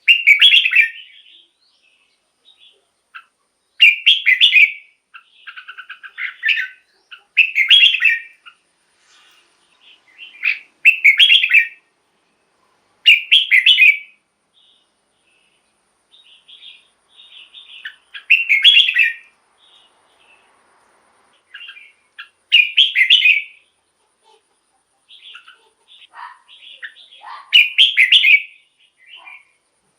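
Red-whiskered bulbul singing: about eight short, loud song phrases, each about a second long and coming every three to four seconds, with softer chattering notes between them.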